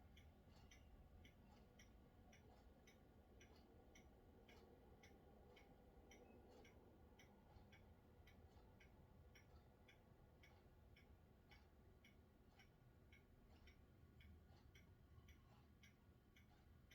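Near silence with faint, evenly spaced ticking, about three ticks a second, over a faint low rumble.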